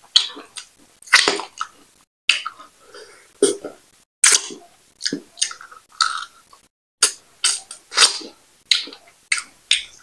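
Close-miked eating sounds of a person chewing fufu and banga soup eaten by hand: wet chewing and lip smacking in a string of short, irregular bursts, about two a second.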